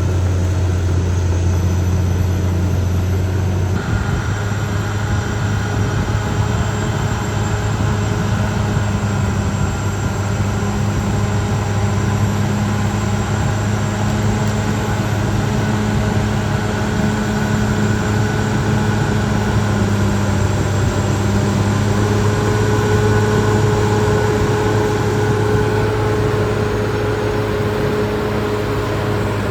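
Caterpillar D6R XL bulldozer's diesel engine running steadily while working. Its pitch steps up about four seconds in and holds, and a higher steady tone joins in for the last several seconds.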